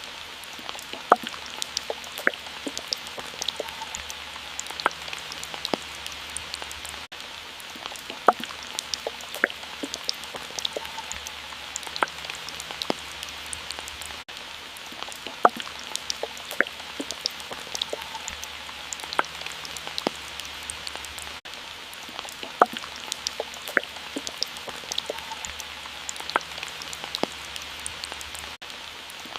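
Water drops falling: sharp, irregular plinks of single drops over a steady rain-like hiss of water. The recording repeats as a loop about every seven seconds.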